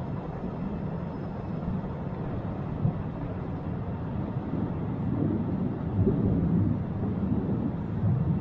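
Postojna Cave tourist train running along its track, heard from an open carriage: a steady low running noise of the wheels and carriages that swells a little in the second half.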